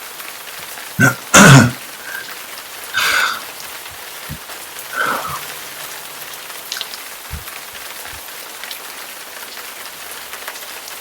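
Steady rain falling, with a few short, louder bursts over it in the first five seconds, the loudest about a second and a half in.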